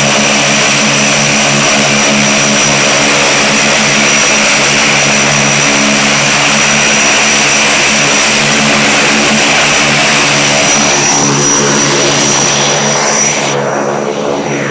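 Propeller airplane engine running steadily, with a thin high whine over it. Near the end the hiss and whine fade and it gets a little quieter.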